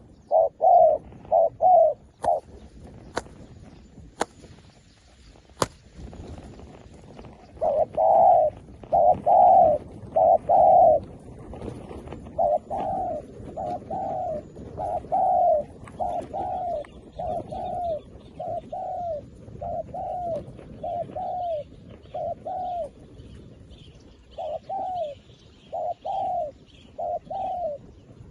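A dove cooing in long runs of short, rounded notes, about two a second, with pauses between the runs. Faint higher chirps from small birds join in during the second half, and a few sharp clicks fall early on.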